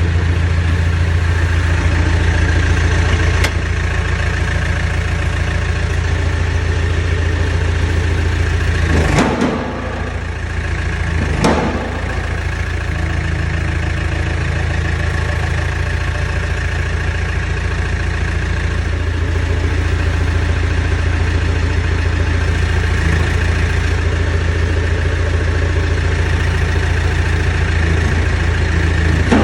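Backhoe loader's diesel engine idling steadily. About nine to twelve seconds in, the engine sound dips briefly and swells again.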